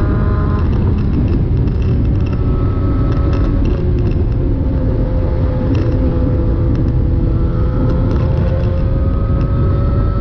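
Suzuki GSX-R1000 inline-four running through an SC Project exhaust with the catalytic converter removed: a loud, steady deep rumble whose pitch sags a little mid-way and rises again near the end.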